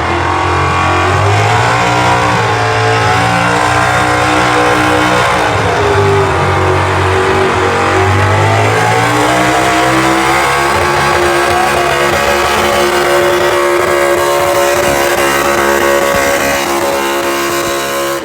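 Pro Stock 4x4 pulling truck, a 1966 GMC with an engine of up to 485 cubic inches, running flat out under load through a pull. The engine speed sags twice in the first half, then holds high and steady, and the engine cuts off suddenly near the end as the pull finishes.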